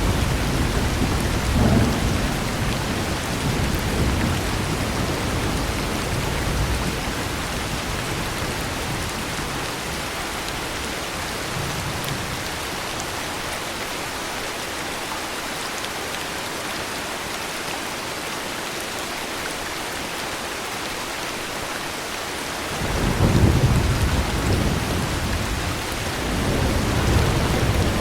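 Steady heavy rain falling, with thunder rumbling low at first and fading out about a third of the way through; near the end a new roll of thunder comes in suddenly and swells twice.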